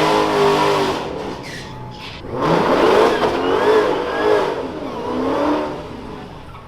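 Performance car engine at high revs: the note drops away about a second in, then climbs again in several rising sweeps, like a hard acceleration up through the gears, and fades near the end.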